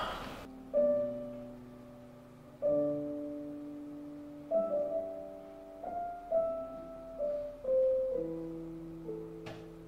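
Piano playing slow, quiet chords and single notes, each struck and left to ring and fade. There is a brief click near the end.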